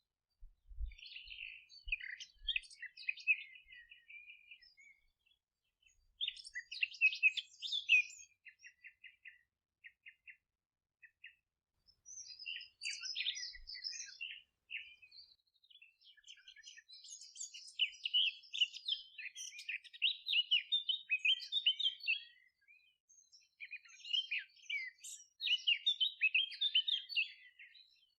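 Several songbirds singing and chirping, phrases of quick trills and runs of evenly repeated notes overlapping, busiest in the second half.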